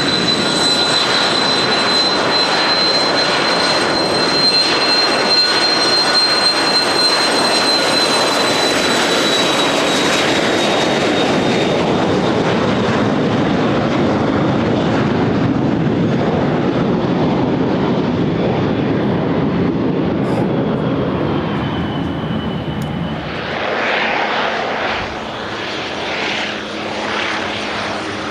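An Embraer Phenom 300's twin Pratt & Whitney PW535E turbofans at takeoff power: a loud roar with a steady high whine. The whine fades and then drops in pitch as the jet goes away. Near the end the sound changes to a rougher, fluttering engine noise.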